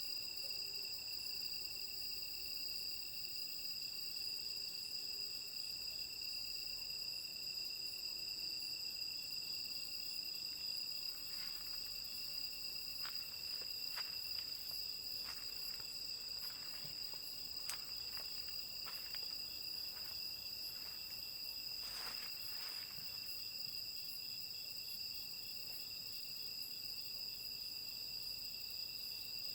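Night chorus of autumn crickets and other insects: several overlapping, steady, high-pitched trills that go on without a break. A scattering of faint short clicks comes through between about a third and three-quarters of the way in.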